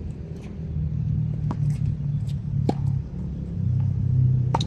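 A ball struck three times in a warm-up rally: sharp knocks over a steady low rumble.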